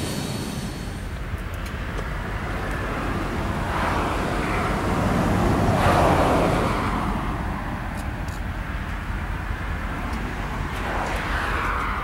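Rumble of a freight train rolling away, giving way to steady outdoor vehicle noise by the tracks with a few swelling passes, the loudest about six seconds in.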